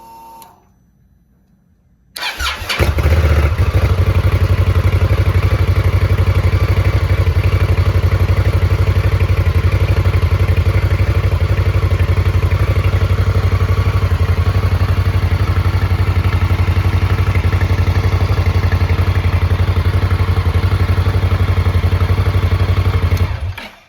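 A 2017 Indian Scout's V-twin, fitted with loud shorty mufflers, cranks briefly on the starter about two seconds in. It catches at once and idles steadily with an even, rapid pulse, then is switched off just before the end. It starts readily on a battery that passes its cranking-voltage test.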